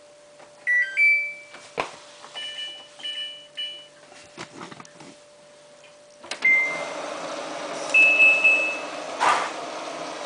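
Samsung WF8804RPA washing machine's control panel beeping as buttons are pressed to enter service (test) mode, a few short beeps of different pitches. About six seconds in, the water inlet valve opens and water rushes steadily into the drum to pre-wet the load, with two more beeps over the fill.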